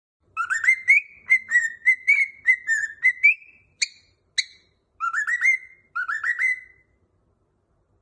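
Cockatiel whistling a song phrase: a quick run of whistled notes, then two short sharp chirps, then two rising whistled phrases.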